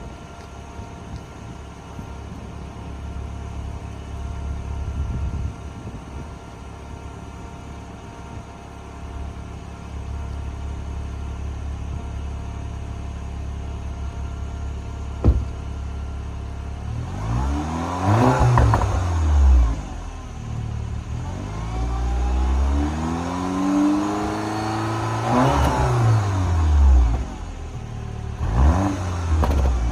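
Porsche Macan (2023) engine idling steadily, then revved repeatedly in the second half: several rises and falls in pitch, a few long revs and some short blips near the end. A single sharp click a little before the revving starts.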